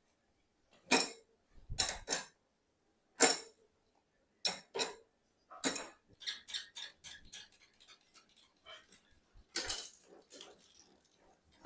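Metal tools and bicycle parts clinking and knocking against each other, one sharp strike at a time, with a quicker run of light ticks partway through and a louder knock near the end.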